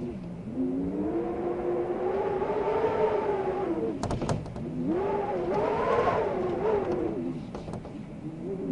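Wind howling, its pitch rising and falling in two long gusts. A few sharp clicks about four seconds in.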